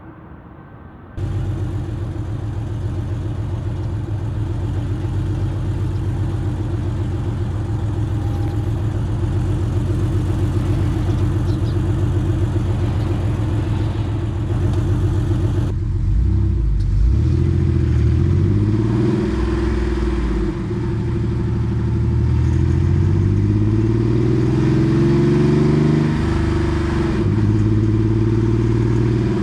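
Porsche 964 Carrera 2's air-cooled flat-six exhaust through a center straight muffler. It cuts in suddenly about a second in and runs steadily at first. About halfway through it accelerates, rising in pitch several times with drops between for the upshifts, then settles to a steady cruise near the end.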